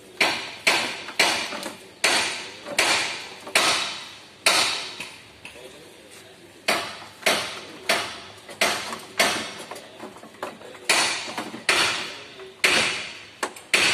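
Sharp metallic knocks with short ringing tails, about two a second in runs with a pause about halfway through, as a flat steel brace plate is knocked into place against a car's underbody.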